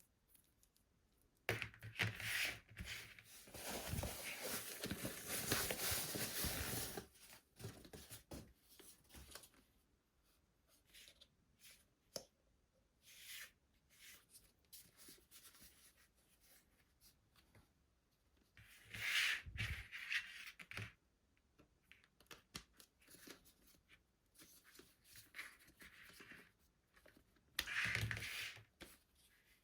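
Packaging being torn open and handled: a long stretch of tearing early on, then two shorter tearing bursts later, with light clicks and rustles of handling in between.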